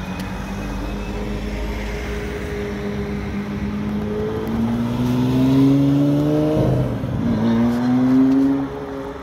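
Supercar engine under hard acceleration: a steady low engine note, then the pitch climbs for about two seconds, dips briefly at a gear change about seven seconds in, and climbs again before fading as the car pulls away.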